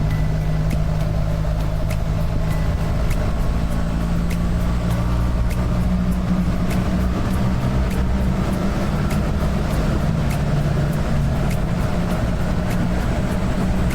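BMW R1300 GS boxer-twin engine running steadily under way, over road and wind noise, with a faint regular ticking about every half second or so.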